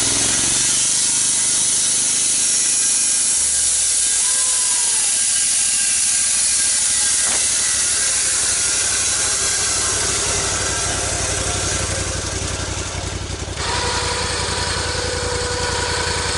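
Engine-powered sawmill running through a log, a loud steady hiss of the cut over the engine's low drone. About thirteen and a half seconds in the sound changes, the cutting hiss drops and the engine's pitched hum comes forward as it runs on.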